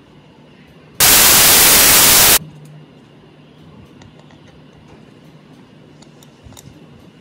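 A loud burst of even hiss, about a second and a half long, that starts and stops abruptly, over a faint low hum and a few small ticks.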